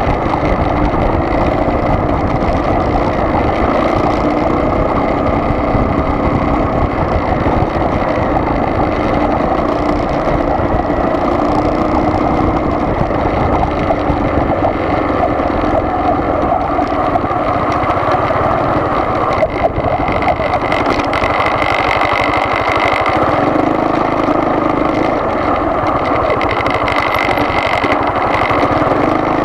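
Car engine and road noise, a steady drone while driving.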